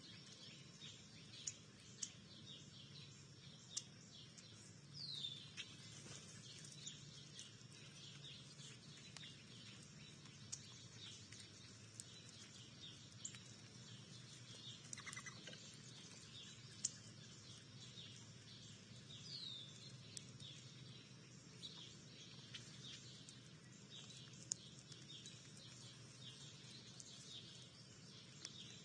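Faint chirping of many small backyard birds, with a couple of short falling whistles and a few sharp clicks.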